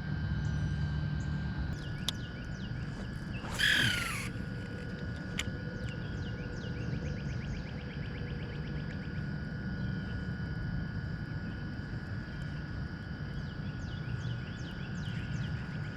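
Birds chirping and calling over a steady low outdoor rumble, with one loud, harsh falling call about three and a half seconds in.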